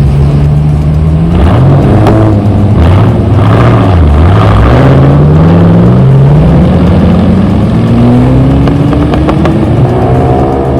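A car engine running loud and close, its pitch dipping and rising a few times, then climbing steadily through the second half as it accelerates.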